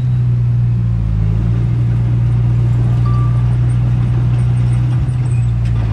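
Diesel engine of heavy earthmoving machinery running steadily with a constant low drone.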